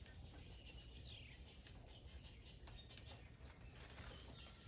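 Near silence: faint outdoor background with a few faint bird calls, one a short falling chirp about a second in.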